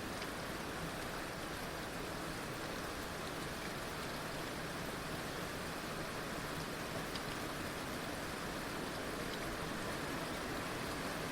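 Heavy rain falling steadily, a dense even hiss with a few faint drop ticks.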